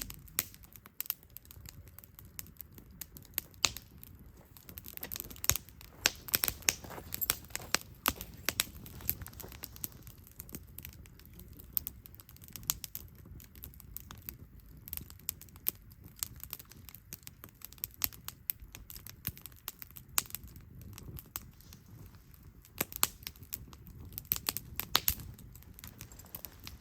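Wood campfire crackling: irregular sharp pops and snaps, some in quick clusters, over a faint low rumble of the burning fire.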